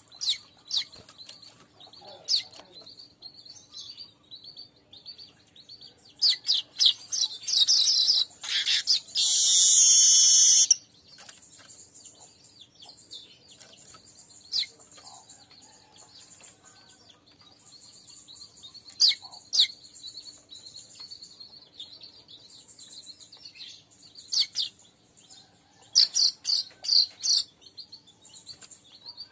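Manyar weaver birds calling: scattered sharp high chirps, with a loud, harsh chattering and buzzing song burst about six to eleven seconds in and another run of quick chirps near the end. A faint steady hum sits underneath.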